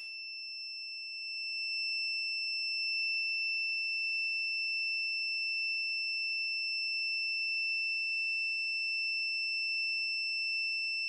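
Digital multimeter's continuity buzzer sounding a steady, unbroken high-pitched tone, its probes across a dryer thermostat being heated with a lighter. The tone grows a little louder about a second in and never stops: the thermostat stays closed under heat, stuck closed.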